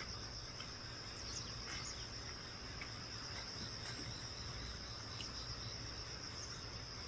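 Steady, high-pitched insect chorus, a continuous fine trill like crickets, with a few faint short chirps over it.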